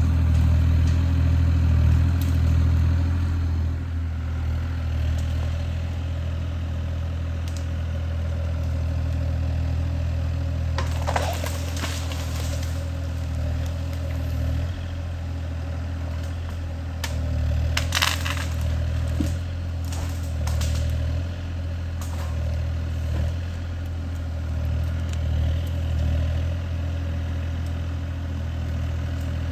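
Kubota KX040 mini excavator's diesel engine running steadily, with sharp cracking and clattering twice, about a third of the way in and again past the middle.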